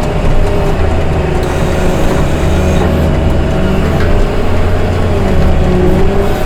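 Engine of a heavy snow-clearing machine running steadily under load, a low hum whose pitch shifts a little.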